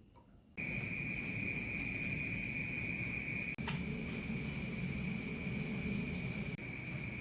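Steady insect chorus, a continuous high chirring with a faint rapid pulse, starting about half a second in.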